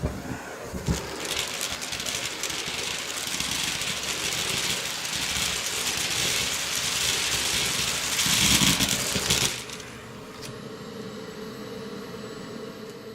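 Dyson Big Ball canister vacuum running, with a rattling hiss as it sucks up debris into its bin, after a few knocks at the start. The noise drops off sharply about nine and a half seconds in, leaving a fainter steady hum.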